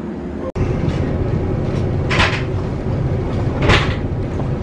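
Inside a stationary JR 117-series electric train car with its doors open: a steady low hum from the car. Two short hisses come about two and three and a half seconds in.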